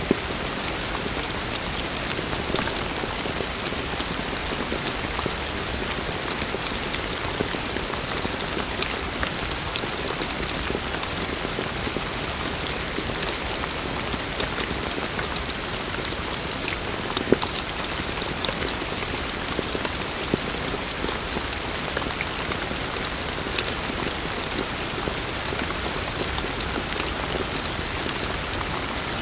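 Steady heavy rain falling on a surface, with individual drops ticking sharply through the constant hiss, one louder drop hit about 17 seconds in.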